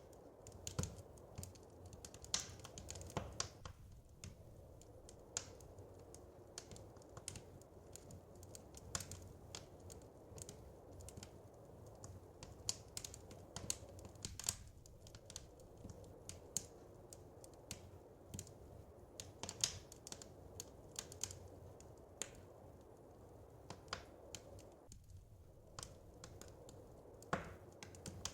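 Wood fire crackling in a fireplace: irregular sharp pops and snaps, at times several a second, over a soft steady low noise.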